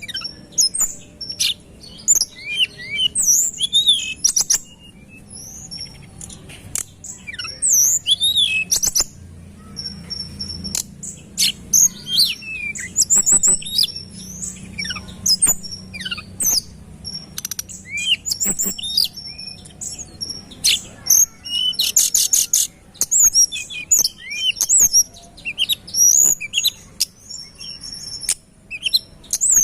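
A tledekan gunung singing in rapid, closely packed phrases of short high whistles, sweeping notes and chattering trills, with no pauses of note, mixed with sharp clicks.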